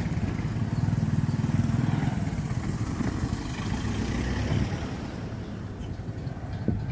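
A combustion engine running steadily with a low rumble, strong for the first four seconds or so and then fading off. A short knock comes near the end.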